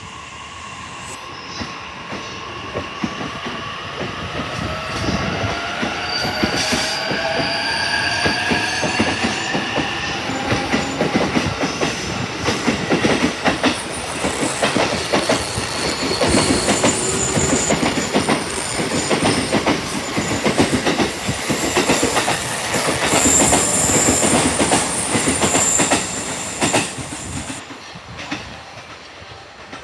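Electric multiple-unit train accelerating along the station platform, its traction motors giving a rising whine over the first ten seconds. The wheels clack over rail joints with some high-pitched wheel squeal, growing loudest mid-way and fading near the end.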